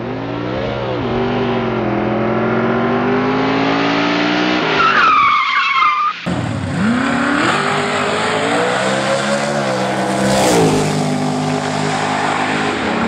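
Drag-race car engines revving hard, the pitch climbing and falling, with a high squeal about five seconds in and a sudden switch to another engine about six seconds in.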